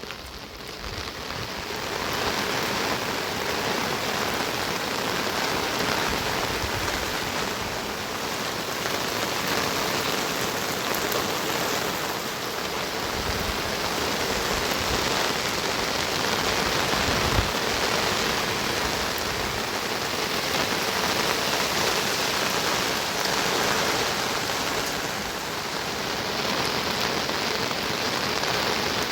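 Heavy rain falling steadily, a dense even hiss of rain hitting surfaces.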